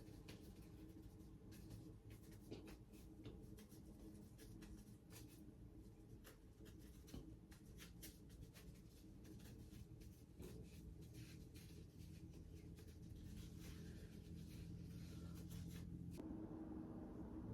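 Near silence: faint scratching and light clicks over a low steady hum.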